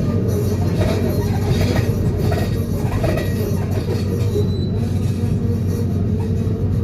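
DPD350T vibro hammer on an excavator running, vibrating a steel sheet pile: a steady, loud low hum with metallic rattling and screech over it.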